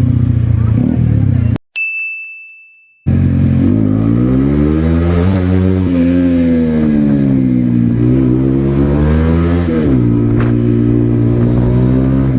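Kawasaki ZX-10R superbike's inline-four engine running, its pitch rising and falling as it revs. About one and a half seconds in, the engine sound cuts out for a single ringing ding sound effect, then comes back.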